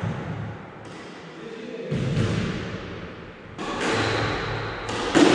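Squash ball rallying: sharp knocks of the ball off the racket and the walls, each followed by a ringing echo from the court. Five hits at uneven intervals of one to two seconds, the loudest near the end.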